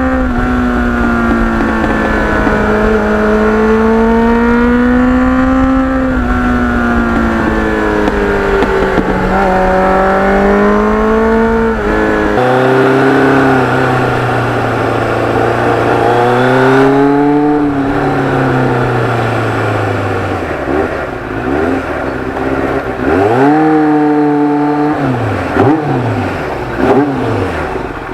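Kawasaki Ninja motorcycle engine heard on board during a ride, its pitch rising and falling with the throttle, with wind rush on the microphone. About halfway through the wind noise drops away and the engine note falls lower as the bike slows, then near the end a few short revs rise and fall.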